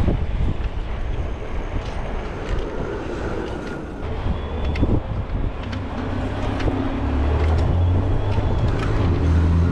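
Road traffic on a city street, with an uneven low rumble and a few faint clicks; about two-thirds of the way through, the steady hum of a nearby vehicle's engine comes in and grows louder.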